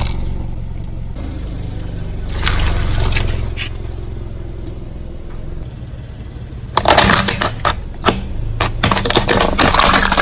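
Car engine running low and slow, then about two-thirds in a rapid series of sharp cracks and crunches as the tyre rolls over crunchy objects and breaks them.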